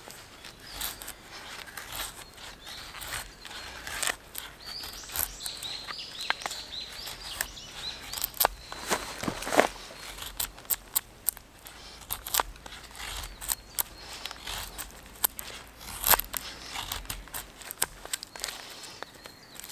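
Irregular sharp clicks and knocks, like gear being handled, with a small bird chirping a few seconds in.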